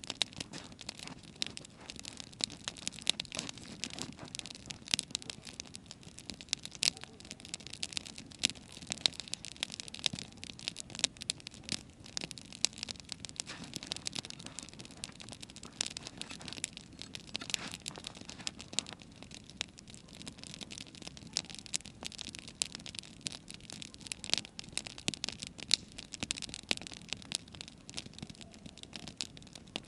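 Wood campfire crackling, with many irregular sharp snaps and pops from the burning wood.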